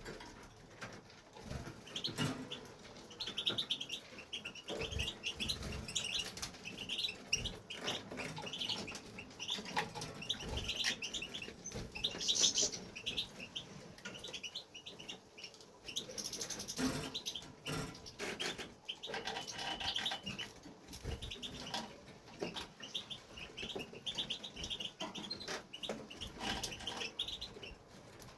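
European goldfinch singing: rapid runs of short, high twittering notes in bursts. Scattered sharp clicks and light knocks, with wing flutters, come in between.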